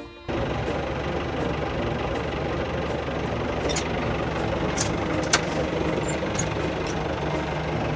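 Old New Holland tractor's diesel engine running steadily, with a few sharp clicks about four to five seconds in.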